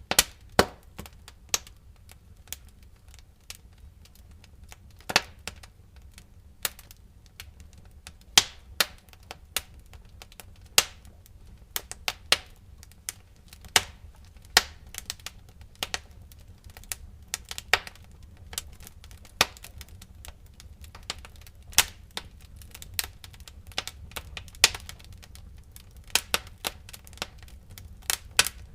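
Wood fire crackling in a fireplace: irregular sharp pops and snaps, several a second, some much louder than the rest, over a faint steady low rumble.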